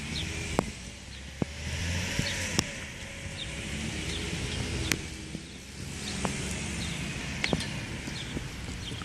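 Street traffic: cars passing twice, each a hiss and rumble that swells and fades, with scattered sharp clicks and taps.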